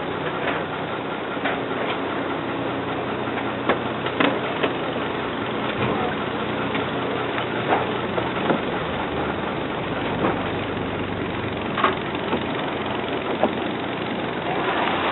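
Slow boat's engine running steadily, a constant drone with a low hum, with a few scattered sharp clicks and knocks over it.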